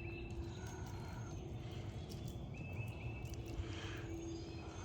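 Outdoor backyard ambience: a few faint, quick bird chirps twice over a steady low hum and background rumble.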